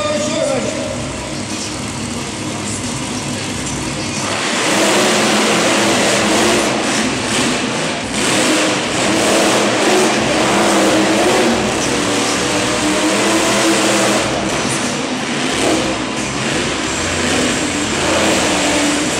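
Monster truck engines revving hard, suddenly much louder about four seconds in and staying loud.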